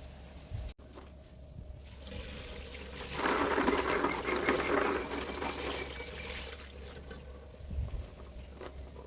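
Water rushing or splashing, swelling about two seconds in, loudest for a couple of seconds, then fading away.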